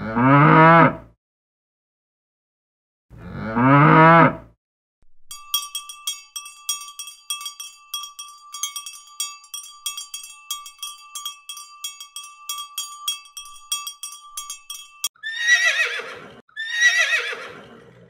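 A cow mooing twice, once at the start and again about three seconds in. Then a cowbell clanking over and over for about ten seconds. Near the end, a horse whinnies twice, each call falling in pitch.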